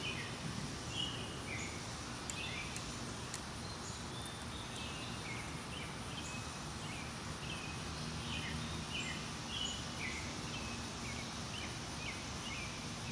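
Small birds chirping over a steady outdoor background hiss: short, falling chirps repeated at irregular intervals. A few faint high ticks come about two to three seconds in.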